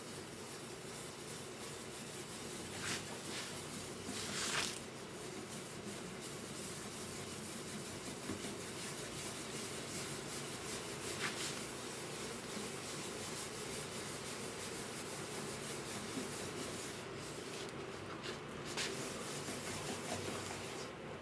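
Steady rubbing, with a few brief louder scrapes about three, four and a half, eleven and nineteen seconds in.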